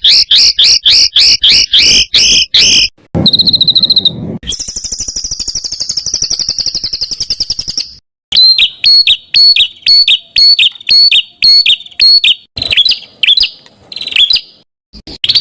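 Songbird tutor song with many varied phrases that change abruptly. A fast run of repeated sharp whistled notes is followed by a short buzzy trill, then a long, very high, fast trill, then a series of sharp repeated chips.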